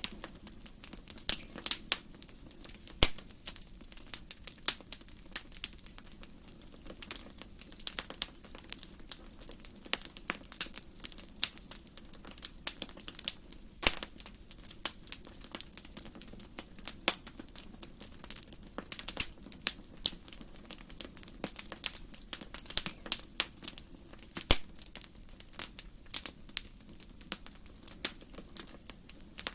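Wood fire burning in a fireplace, crackling and popping at an irregular rate over a low steady hiss, with a few louder snaps.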